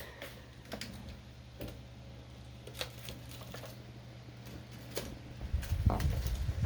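A few faint, scattered clicks and scratches, about a second apart, over a low steady hum; a louder low rumbling starts near the end.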